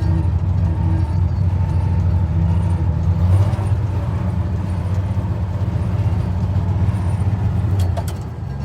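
1965 Chevy C50 grain truck's 292 cubic-inch inline-six engine running with a steady low drone. Near the end it drops in loudness briefly, with a few clicks.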